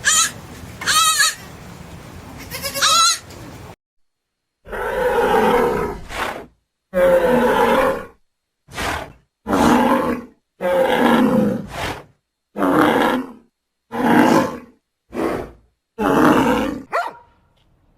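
A goat bleats three times. Then, after a short silent gap, a donkey brays over and over: a string of rough, loud hee-haw calls.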